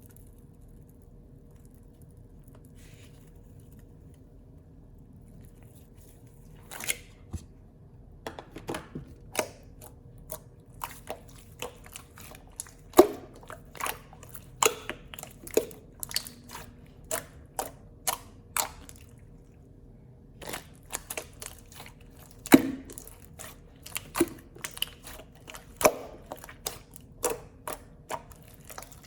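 Slime being played with by hand, giving irregular sharp sticky clicks and pops. It starts about six seconds in, pauses briefly about two-thirds through, then carries on.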